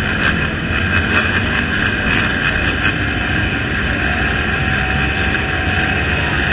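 A pack of motocross bikes' engines running together in a loud, steady din.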